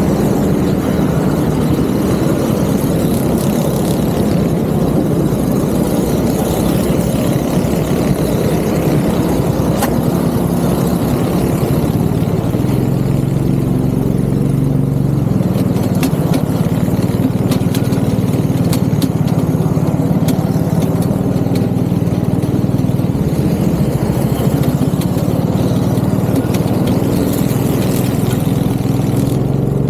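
Go-kart engine idling steadily, its pitch stepping up slightly about twelve seconds in.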